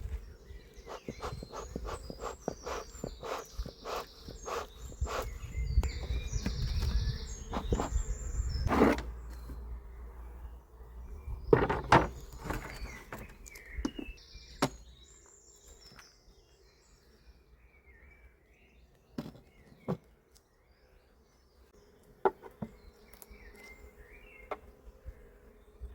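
Beehive being worked open during an inspection: a run of sharp clicks and knocks from hive parts and frames being handled, busiest in the first half and sparser later. Under it is a faint steady hum of bees, with birds chirping.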